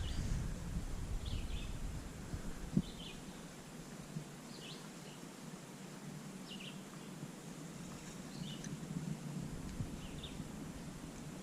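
A bird giving short, high chirps about once a second over quiet outdoor ambience, with one soft knock near three seconds in.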